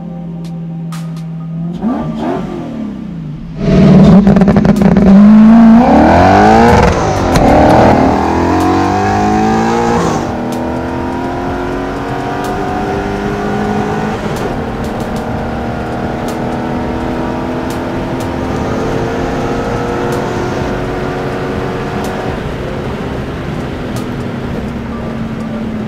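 Audi 4.2-litre V8 in a Volkswagen Beetle, breathing through short open exhaust headers. It idles, revs briefly about two seconds in, then runs loud and hard from about four seconds, its pitch climbing and dropping back several times at gear changes. After that it eases off and runs on steadily at lower revs.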